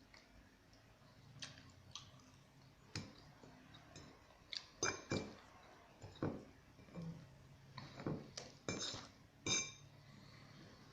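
An animal eating dry cat kibble: irregular crisp crunches and clinks, more frequent in the second half.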